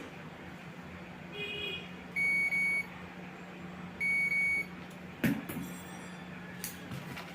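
Two electronic beeps, each about half a second long and about two seconds apart, preceded by a fainter chirp and followed by a few sharp clicks. A steady low hum runs underneath.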